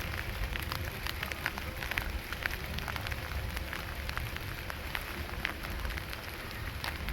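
Irregular pattering of water drops on a hard surface, a steady spattering made up of many small, uneven ticks.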